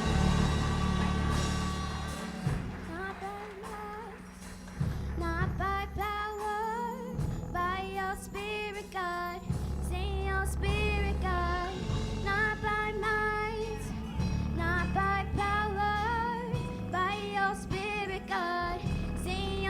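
A church worship song: a high solo voice sings phrases with vibrato over instrumental accompaniment with a deep bass line. The accompaniment plays alone at first, and the voice comes in about two and a half seconds in.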